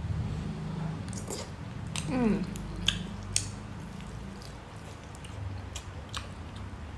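Close-miked eating: steamed chicken being bitten and chewed, with wet mouth noises and scattered sharp clicks. A short pitched vocal sound about two seconds in is the loudest moment.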